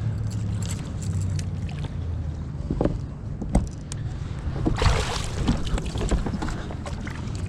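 Water sloshing around a fishing kayak with wind buffeting the microphone, a steady low rumble broken by a few small clicks and a louder rush of water about five seconds in.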